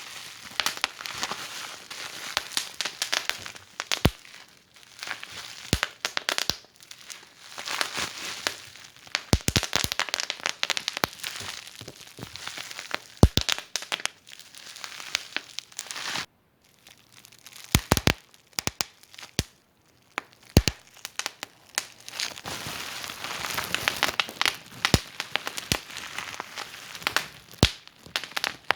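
Wood fire in a fireplace crackling, a steady hiss full of small clicks and frequent sharp pops. The crackle drops out briefly about halfway through, then resumes.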